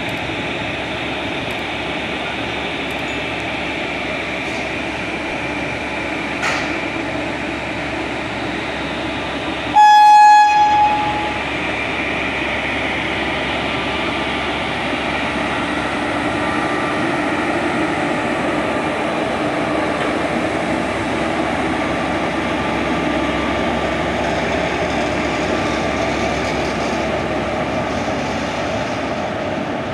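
Train running through a station with steady rail and wheel noise. About ten seconds in, the locomotive gives one short, high-pitched horn blast lasting about a second.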